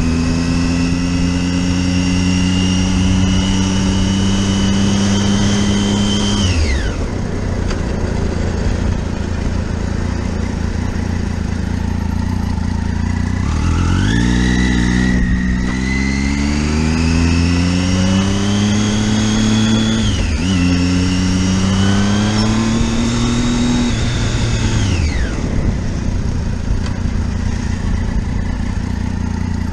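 Motorcycle engine under way, holding revs at first, then easing off about six seconds in. From about 13 seconds it accelerates, the revs climbing through two gear changes before dropping away near 25 seconds. A steady rush runs underneath.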